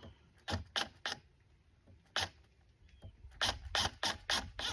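Series of short sharp clicks, about ten, irregularly spaced and bunching up near the end, from a screw being worked with a drill.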